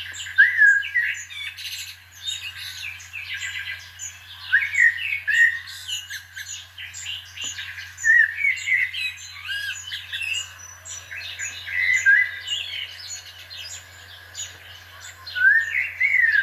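Birdsong sound effect played by a model locomotive's DCC sound decoder: many short chirps and rising calls, over a steady low hum.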